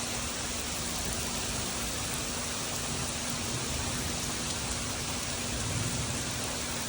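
Rain falling steadily, an even hiss of drops hitting the ground during a thunderstorm.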